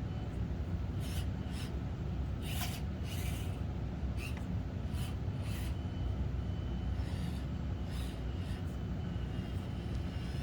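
Stock Axial SCX24 Deadbolt micro RC crawler driving, its small electric motor and gears whirring in several short bursts of throttle over a steady low hum.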